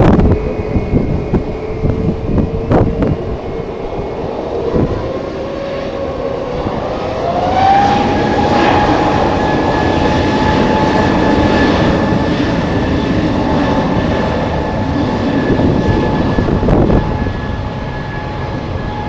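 Jet airliner engines spooling up: a whine rises in pitch about seven seconds in and then holds steady over a growing rumble. Strong wind buffets the microphone with thumps in the first few seconds.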